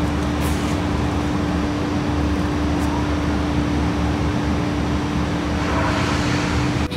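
Steady mechanical hum with a low rumble underneath, and a brief rustle near the end.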